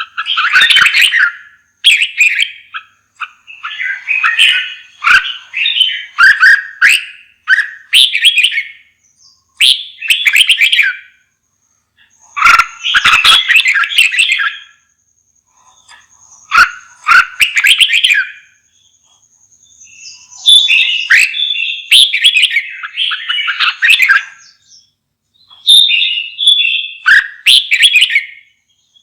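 Red-whiskered bulbul singing: short, rich warbled phrases of one to two seconds, repeated again and again with brief pauses between them. A faint, thin, high steady note comes and goes in the background.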